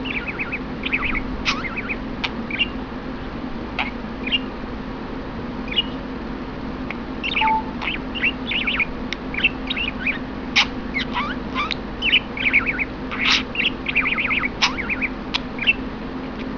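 Pet budgerigar warbling: a scattered string of short chirps, clicks and squeaks, busiest in the second half, over a steady low hum.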